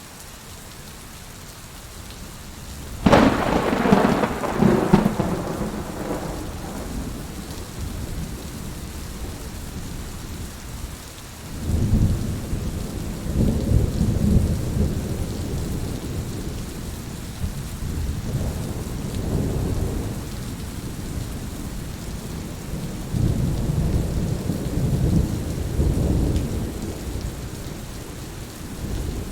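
Heavy rain falling steadily, with thunder: a loud crack about three seconds in, then deep rolling rumbles that swell and fade three more times.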